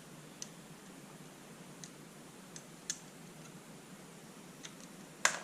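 Small faint clicks of a quick-disconnect hose fitting and its seal being worked off a pressure washer's water inlet by hand, ending with one sharper, louder click as it comes free.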